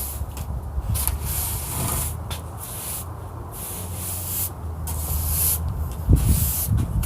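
Sand being brushed or wiped up in repeated scratchy hissing strokes, about one a second, over a steady low hum.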